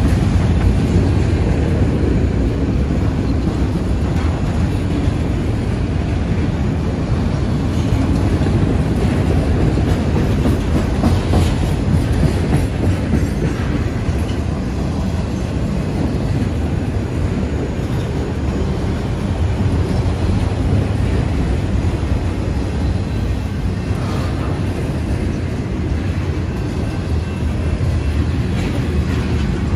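CSX freight train rolling by, a steady noise of cars and wheels on the rails.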